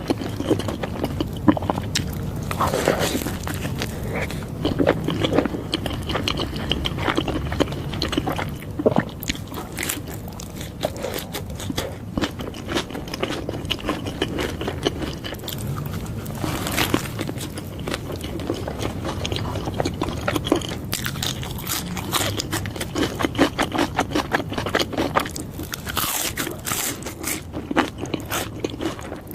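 Close-miked eating of a burger and fries: steady wet chewing with crisp, crunchy bites, several of them louder than the rest.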